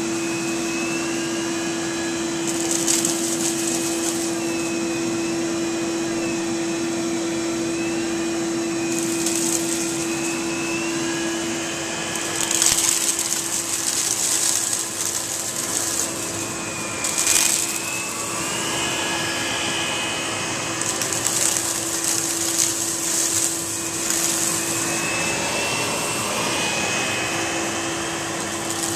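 Central vacuum cleaner running with a steady hum and a whine that rises and falls, as the air rush through the hose and nozzle swells into loud hissing surges several times and then settles.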